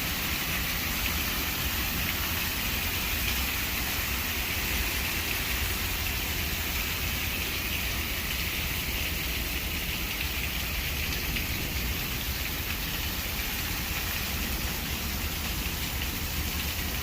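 Steady rain falling and splashing on wet surfaces, with a low wind rumble on the microphone.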